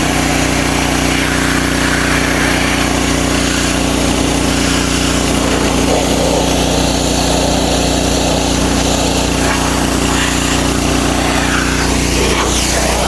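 RYOBI 3300 PSI gas pressure washer's 212cc horizontal engine running steadily at constant speed, with a hissing spray over it.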